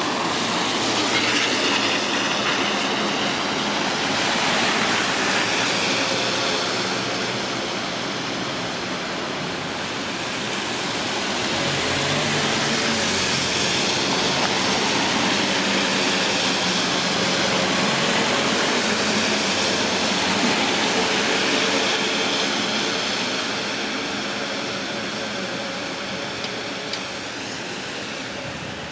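Traffic passing on a rain-wet street, tyres hissing on the wet road. The hiss swells and fades as vehicles go by, with a longer, lower rumbling pass in the middle.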